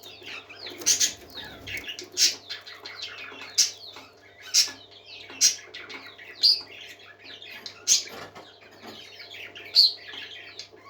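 A flock of parakeets chattering and warbling without pause, with loud sharp chirps cutting through about once a second.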